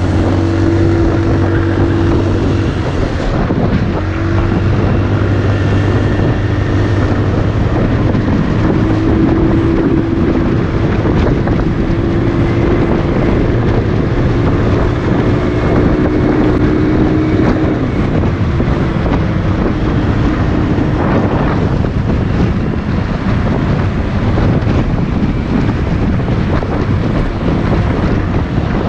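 Motorcycle engine running at a steady pace while riding, under heavy wind noise on the microphone. The engine's hum sinks into the wind noise after about 18 seconds.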